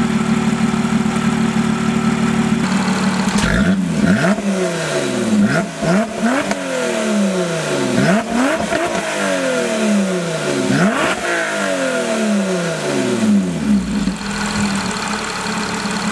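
Lotus Exige S Club Racer's supercharged 3.5-litre V6 idling, then revved while stationary in a series of about seven quick throttle blips, each rising sharply and falling back slowly, before settling back to idle near the end.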